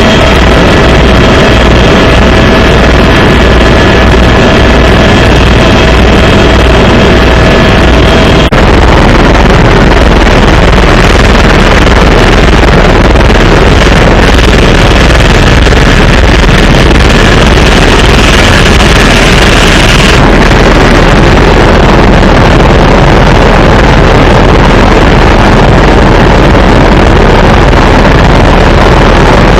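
Helicopter engine and rotor noise, very loud and steady, with a high whine over it that cuts off about eight seconds in.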